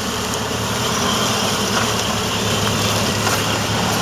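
Ford Model A's four-cylinder flathead engine running at low speed as the truck rolls up and pulls alongside, growing slightly louder as it nears. The engine has a newly replaced head gasket.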